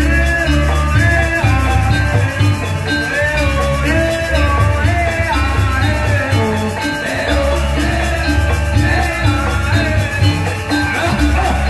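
Balinese gamelan playing: many short ringing metallophone notes over heavy drum and gong strokes.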